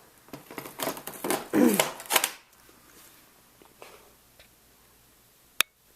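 About two seconds of dry rustling and scraping, then quiet, with one sharp click near the end.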